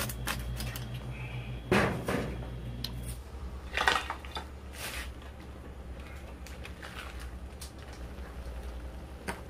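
Kitchen clatter from a knife, plates, a pot and tongs: a handful of separate clinks and knocks over a low steady hum, the loudest about two seconds in.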